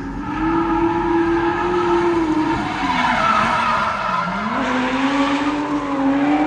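Toyota JZX100 drifting: the engine is held at high revs while the rear tyres squeal. About four seconds in the revs dip briefly, then climb back.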